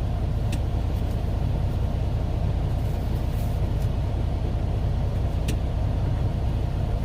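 Semi-truck's diesel engine idling, a steady low rumble heard inside the cab, with a few faint clicks.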